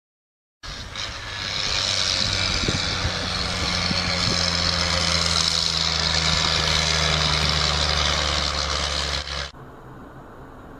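Steady vehicle running noise: a low engine hum under a loud hiss of road and wind noise, cutting off abruptly near the end.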